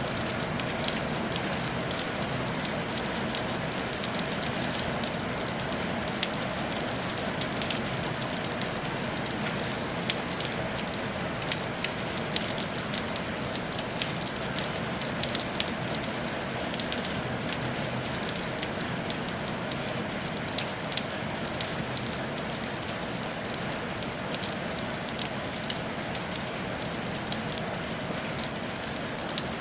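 Steady rain falling on a tile roof: an even hiss with many small drops ticking on it, unchanging throughout.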